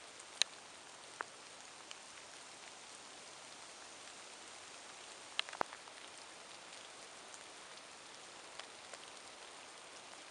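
Steady, fairly faint rain, with a few sharp drips landing close by, the loudest about half a second in and two together a little past the middle.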